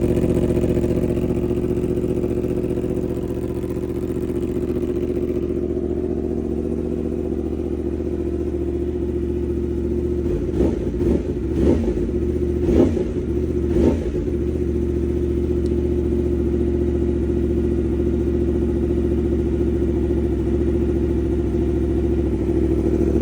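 2019 Yamaha R1's crossplane inline-four, breathing through a full titanium exhaust, idling steadily from a cold start. Four short blips of the throttle come about ten to fourteen seconds in, then it settles back to idle.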